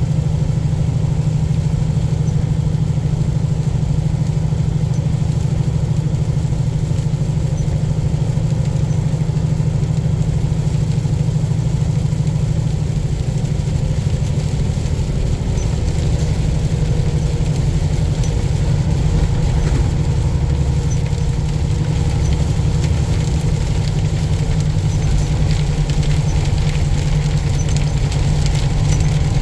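Semi-truck's diesel engine running at a steady drone while driving, with a constant low hum and no change in pace.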